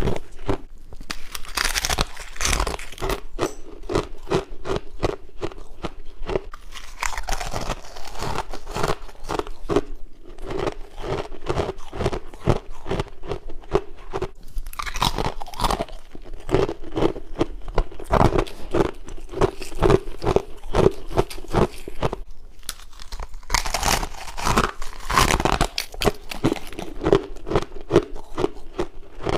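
A person biting and chewing frost-ice close to the microphone: dense, continuous crunching and crackling, with a few louder bursts of crunch.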